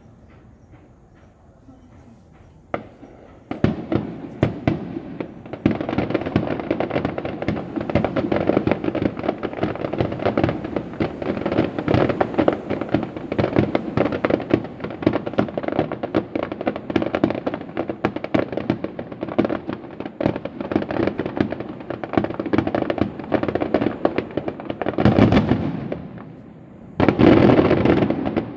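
Fireworks display: after a quiet start and a single bang, shells burst in a rapid, nearly continuous barrage of bangs and crackle, with two loudest surges near the end.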